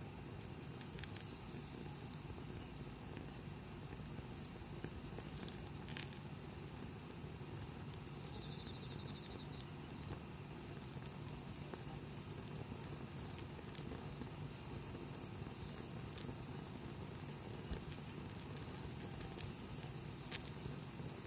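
Wood campfire burning with a few sharp pops, under insects trilling high and steadily, with a repeating trill about two seconds long every few seconds.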